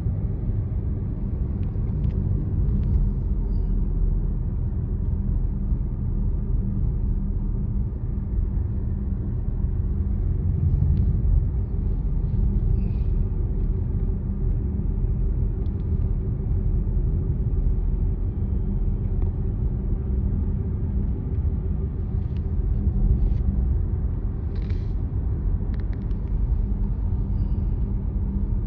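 Car driving at a steady pace: an even low rumble of road and engine noise.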